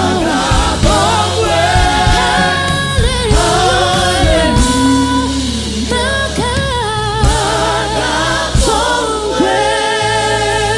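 Gospel choir singing with vibrato over a live band with steady bass and keyboard.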